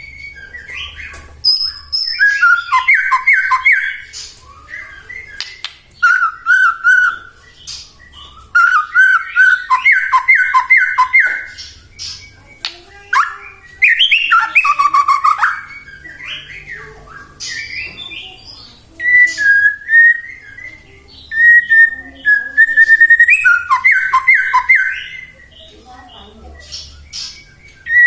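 White-rumped shama (murai batu) singing: clear whistles and fast rattling trills, with some sharp high notes, in loud phrases of one to three seconds separated by short pauses.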